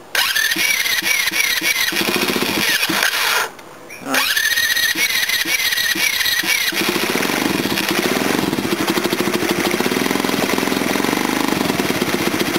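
Mini bike engine cranked on its electric starter with the choke on, a whining starter turning it over in steady pulses, twice with a short pause between. About seven seconds in it catches and runs on a straight pipe with no muffler: a cold start.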